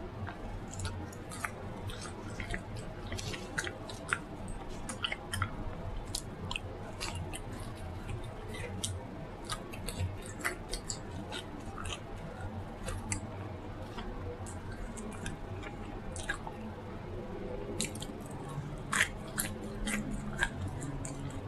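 Close-up chewing and mouth smacking: irregular wet clicks and crunches from a person eating.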